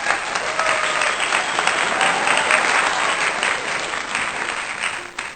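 Crowd applause, dense and steady, starting and stopping abruptly: a celebratory applause sound effect laid over the footage.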